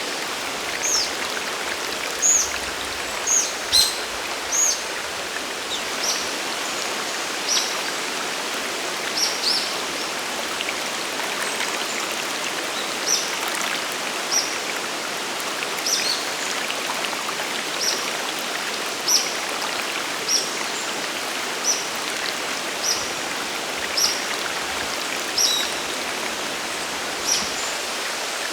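Waterfall and mountain river water rushing steadily, with a bird repeating short high chirps over it, roughly one a second.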